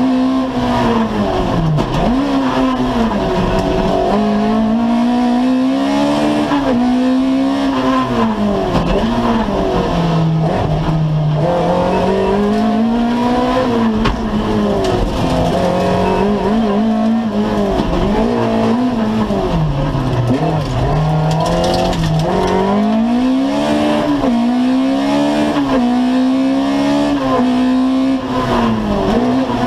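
Two-wheel-drive rally car's engine heard inside the stripped, roll-caged cabin, driven hard at racing pace. Its pitch climbs under acceleration and drops sharply again and again at gear changes and lifts for corners, holding level for a moment twice.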